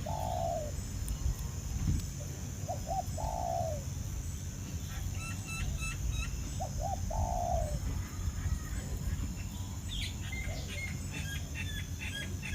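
Birds calling: a low cooing phrase of two short notes and a longer drawn note, repeated three times about every three and a half seconds, with bursts of high, quick chirping in the middle and near the end, over a steady high hiss.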